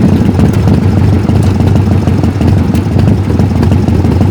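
1998 Harley-Davidson FLSTC Heritage Softail Classic's Evolution 1340 cc V-twin idling steadily.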